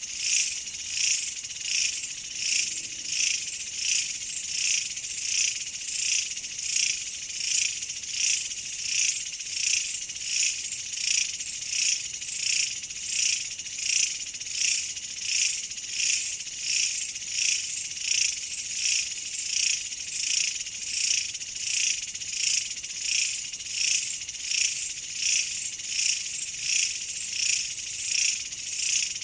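Insects chirping in a steady, even rhythm, about one and a half high-pitched pulses a second.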